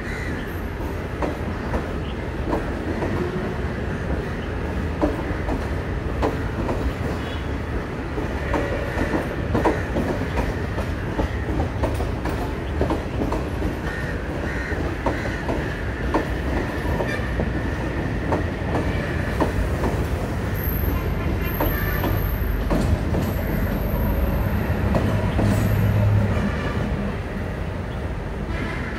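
Diesel passenger train carriages rolling past, wheels clicking over rail joints over a steady rumble, with some wheel squeal midway. Near the end the diesel power car passes: the low engine rumble grows louder and a thin high whine sounds for several seconds before both ease off.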